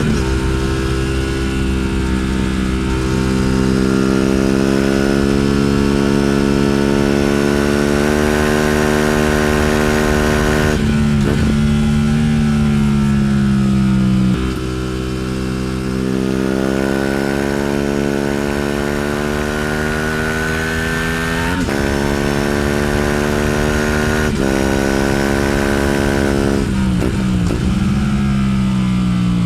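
Aprilia RS 457's liquid-cooled parallel-twin engine revving as the bike is ridden through the gears: the engine note climbs steadily, then breaks off briefly and drops in pitch at each shift, several times. Near the middle the revs fall away for a few seconds as the bike slows.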